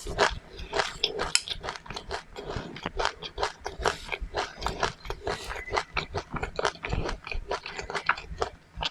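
A person chewing crunchy seeds, a quick, continuous run of small crunches and wet clicks that eases off just before the end.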